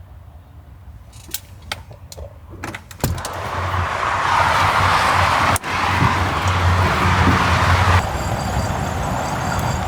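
A few sharp clicks and knocks, like a door latch and handle being worked. About three seconds in, a door comes open and a steady rush of highway traffic noise with a low rumble fills in.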